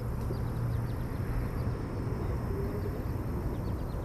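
Steady low rumble of outdoor background noise, with faint quick ticks higher up during the first half.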